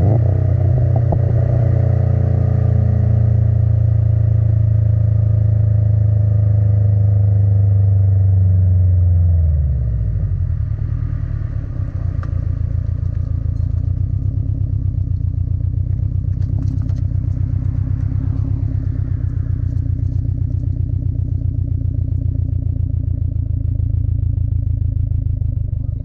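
Subaru WRX STI's turbocharged flat-four engine through an Invidia R400 cat-back exhaust, starting up and running at a raised idle, then dropping sharply about ten seconds in to a lower, steady idle with an even, rumbling pulse.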